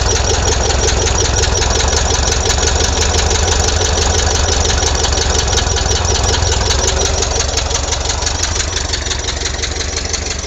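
Air-cooled flat-four engine of a VW bus running steadily at idle, a fast, even pulsing run that grows fainter near the end. It is running on its ignition system, which was feared fried but still works.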